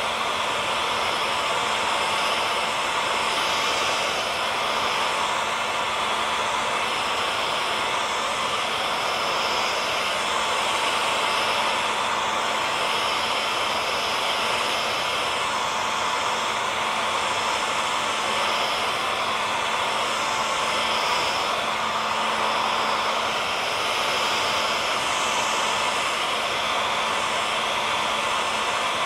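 Hair dryer blowing continuously, a steady rushing hiss with a faint motor hum and whine running through it.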